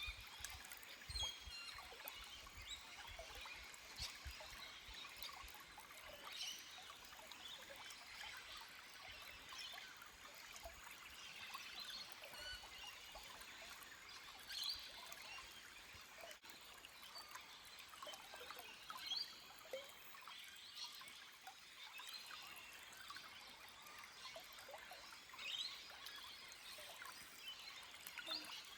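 Small forest stream trickling softly over rocks, with short bird calls now and then.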